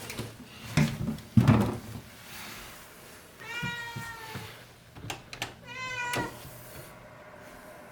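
Domestic cat meowing: one long meow in the middle and a shorter one about two seconds later. A couple of loud thumps about a second in are the loudest sounds.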